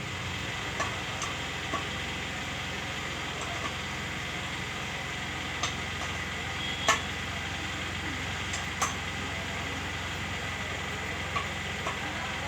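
Light, scattered clicks and taps of metal tools and engine parts being handled, about ten in all, over a steady low hum.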